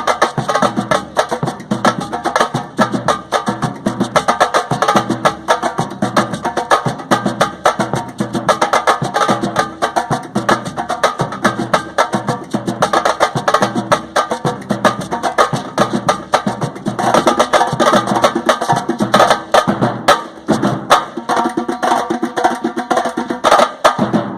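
Street percussion ensemble playing a fast, dense rhythm on drums, with sharp wooden or stick-click strikes layered over the drumming. The playing stops about a second after the end.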